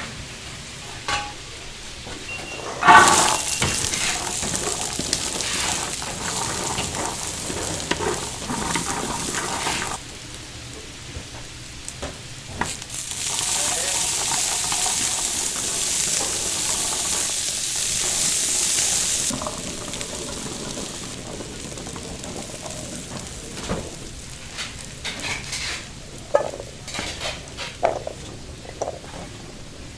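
Chicken frying in hot oil, a loud sizzle that swells twice, each time lasting several seconds. Between and after the sizzling come scattered clanks of metal utensils and pans.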